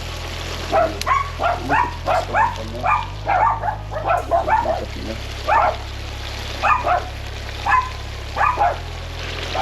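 A dog barking repeatedly in short, sharp barks, often two or three in quick succession, over a steady low hum.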